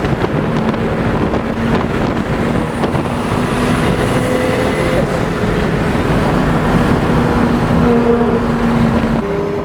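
Car engine running at steady, moderate revs under dense wind and road noise, heard from inside an open-top car on the move; the engine note drifts only slightly and shifts a little near the end.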